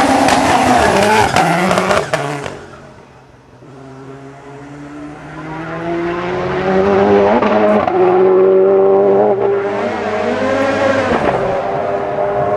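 Hillclimb race car at full throttle, loud, then dropping away about two seconds in; a second race car approaches and climbs through the gears, its engine pitch rising and falling back with each of three upshifts.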